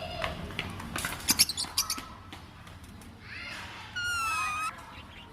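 A pet parrot making squeaky calls, then a clear whistled note held a little under a second near the end. A quick run of sharp clicks comes about a second in.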